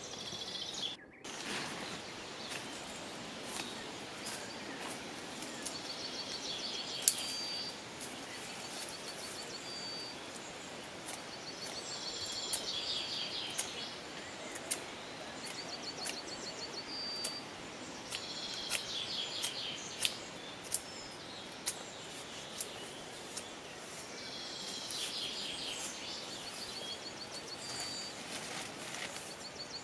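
Forest ambience: a songbird singing short trilled phrases again and again, every few seconds, over a steady background hush. Scattered sharp clicks are heard throughout, one louder about seven seconds in.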